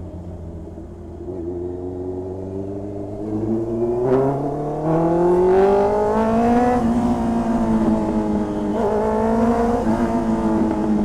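2020 Honda CB650R's inline-four engine through an SC Project aftermarket exhaust, running at low revs and then accelerating about four seconds in, its pitch rising for a few seconds. It then drops back and holds a steady pitch, with a brief dip and recovery near the end that fits a gear change.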